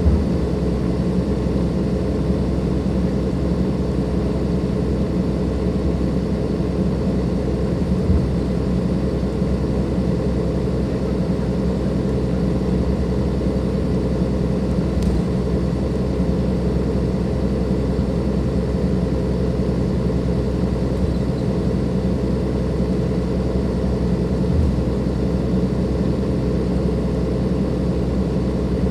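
Dennis Enviro 500 double-decker bus's Cummins ISLe diesel engine running steadily at an unchanging pitch, with a couple of brief low thumps.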